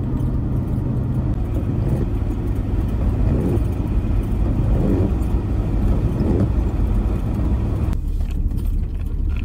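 Car driving, with a steady engine and road rumble.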